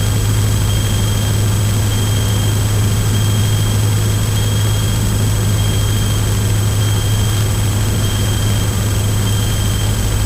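Cockpit drone of a single-engine Cessna trainer's piston engine and propeller, running steadily at reduced power on the descent of final approach. A strong low hum with an even rushing haze and a faint steady high whine over it, unchanging throughout.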